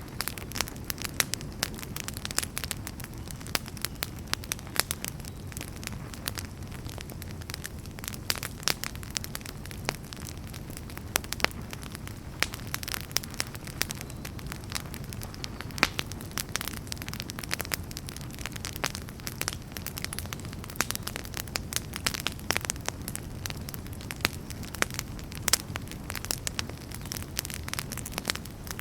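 Wood campfire burning, with a steady low rumble under frequent irregular sharp crackles and pops.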